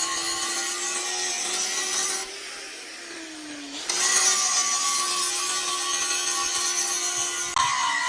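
Electric power tool working metal: a steady motor whine with a hiss of grinding or cutting. About two seconds in it eases off and its pitch sags, then it picks up again at about four seconds.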